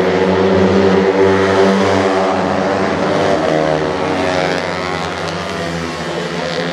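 A pack of Honda NSR50 and NS50 two-stroke racing minibikes running hard, several engine notes overlapping and rising and falling in pitch as the bikes accelerate and pass.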